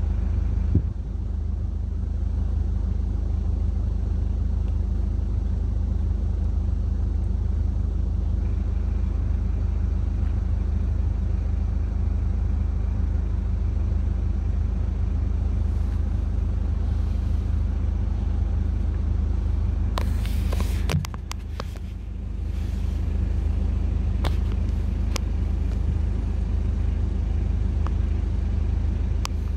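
Car engine idling steadily, heard from inside the cabin. A few clicks and knocks come about two-thirds of the way through, with a brief dip in the hum.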